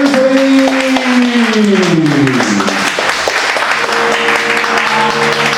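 Crowd applauding. In the first two or three seconds a held tone slides down in pitch and dies away, and about four seconds in steady music chords come in over the clapping.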